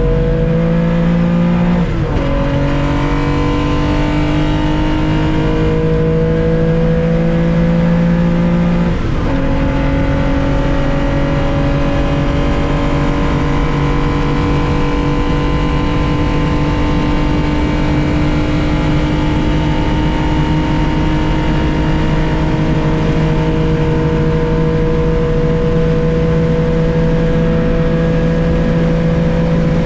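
Air-cooled flat-six of a 1965 Porsche 911 2.0 at racing speed, heard from inside the car: two upshifts about two and nine seconds in, each a quick drop in pitch, then a long slow climb in revs in top gear.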